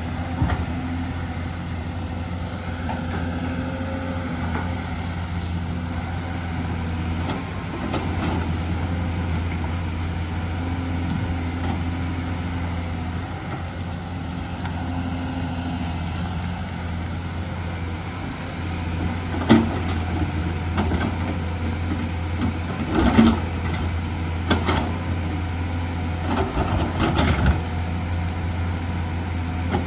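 Excavator's diesel engine running steadily under work, with a string of sharp clanks and knocks starting about two-thirds of the way in, the loudest a little after that.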